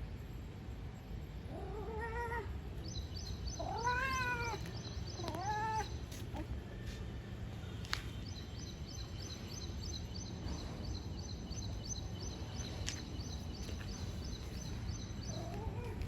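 Domestic cat meowing: three rising-then-falling meows in quick succession, then one more near the end. A rapid, high-pitched pulsed trill repeats in the background.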